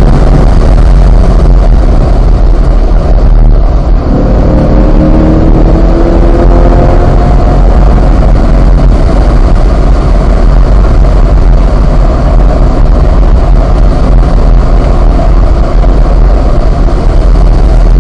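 V8 engine of a Chevrolet Corvette running hard at high revs in fourth gear, heard from inside the cabin over wind and tyre noise. It lifts briefly about four seconds in, then climbs slowly in pitch.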